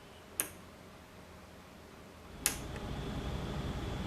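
Two sharp clicks about two seconds apart; after the second, a steady low hum and hiss sets in and carries on.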